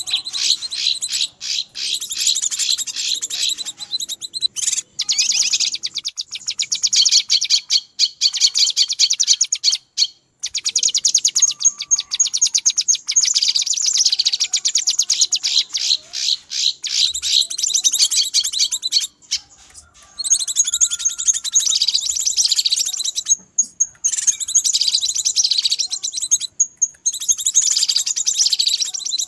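Cucak kinoi birds in noisy, excited chatter: a dense stream of rapid, high chirps, broken by short pauses a few times. This is a lure call, used to draw wild kinoi.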